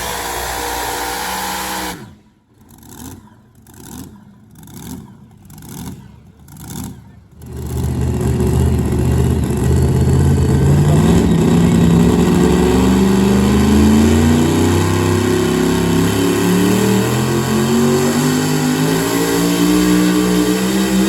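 Super modified two-wheel-drive pulling truck engine. After a few seconds of quieter swells about once a second, it runs loud under full load, its pitch climbing slowly as the truck pulls the sled.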